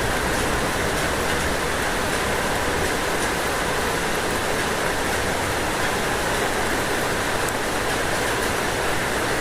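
Steady rain falling on a roof: an even hiss with faint scattered ticks of individual drops.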